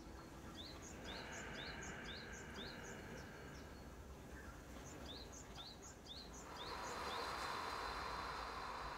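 Faint bird chirping: short, quick upswept notes about two a second, in two runs. Under them a soft hiss of slow breathing, which grows louder about six seconds in.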